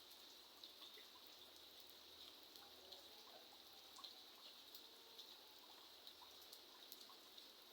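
Faint, steady rain, with scattered drips and raindrop ticks landing irregularly.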